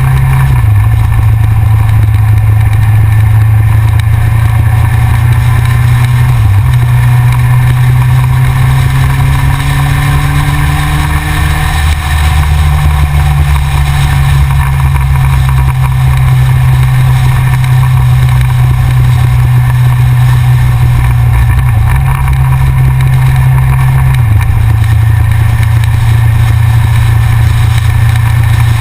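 Yamaha XJR's inline-four engine running steadily under way, close to the microphone, with its note stepping briefly a few times (about 6 s, 22 s and 24 s in).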